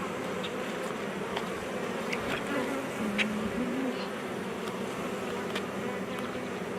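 Honey bees buzzing around an open hive: a steady hum of many bees, with one bee droning past close about halfway through.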